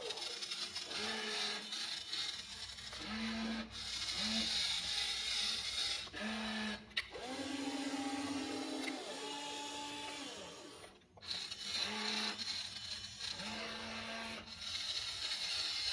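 Small electric motors and plastic gearboxes of a Wltoys RC excavator whining in short runs of a second or two, their pitch stepping up and down as they start and stop, with one longer run near the middle, over a steady gear whirr.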